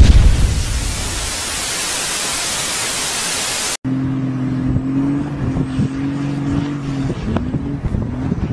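A loud, steady rushing hiss from an intro sound effect, cut off abruptly a little under four seconds in. It gives way to a diesel rat rod's engine held at high revs, a steady drone that wavers and dips briefly near the end as the car slides through loose dirt.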